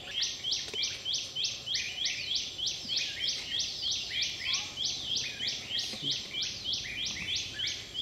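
A bird calling in a fast, even series of short, high notes, about three a second, kept up without a break.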